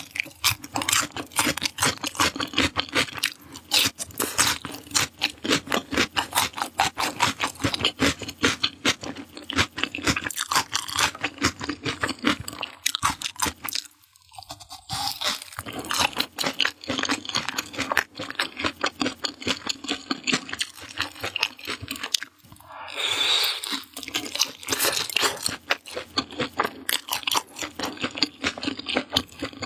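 Close-miked chewing and crunching of fried skewered food: dense crisp crackles and wet mouth clicks, with a short pause about halfway. Roughly three-quarters of the way through there is a louder, hissier stretch lasting about a second.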